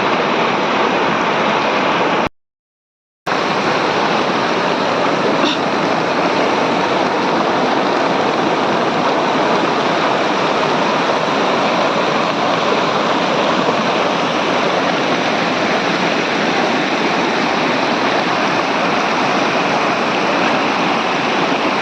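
Monsoon waterfall rushing steadily, an even roar of falling water. The sound drops out completely for about a second a couple of seconds in, then carries on unchanged.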